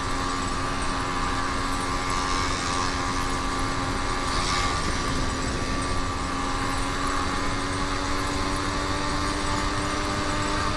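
YD100 two-stroke motorized-bicycle engine with a window piston, running steadily under way, its pitch creeping slightly higher in the second half.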